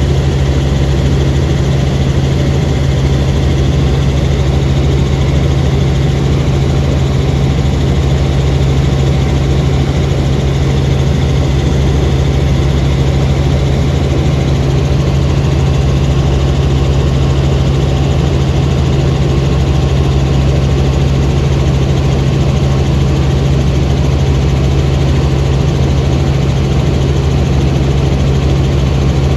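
Helicopter in flight: steady, loud engine and rotor noise with a constant low hum that does not change.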